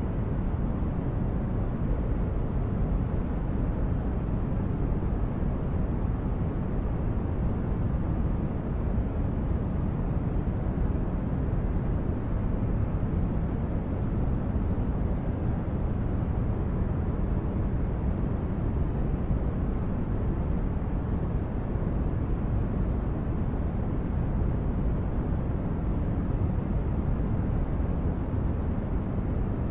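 Synthesized spaceship ambience: a steady, unbroken noise drone like brown noise, heaviest in the deep bass, like a starship's engines heard from inside.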